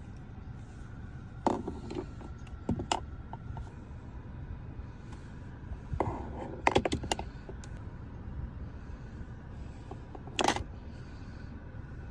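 Scattered sharp clicks and clacks of small items being handled and set in place, over a steady low rumble; a cluster of taps about six to seven seconds in, and a last loud click near ten seconds.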